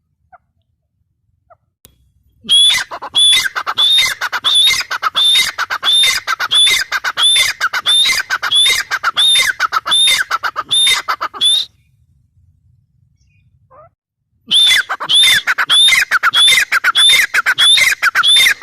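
Grey francolin (teetar) calling: a loud run of sharp repeated notes, about two or three a second, starting a couple of seconds in. The run breaks off for about three seconds past the middle, then starts again.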